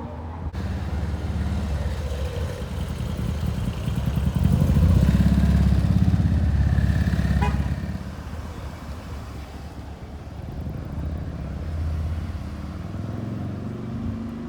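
A car's V8 engine running as the car drives past, getting louder to a peak about halfway through, then fading as it moves away.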